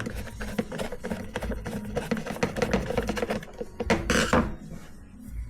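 Small metal parts and tools clinking and tapping as the moped carburettor's air filter is taken off, with a short scrape about four seconds in.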